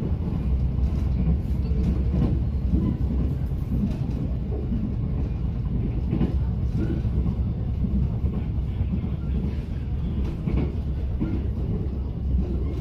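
A Mugunghwa-ho passenger train running along the track, heard from inside the car: a steady low rumble with a few faint knocks from the wheels.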